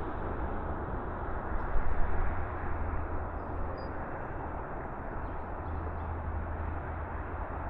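Steady rumbling wind and rolling noise on the camera's built-in microphones as the electric trike rides along, with a louder gust or bump about two seconds in.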